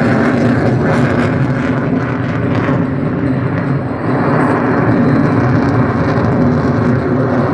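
Steady jet noise from an F-22 Raptor's twin Pratt & Whitney F119 turbofans during its display, dipping slightly about halfway through.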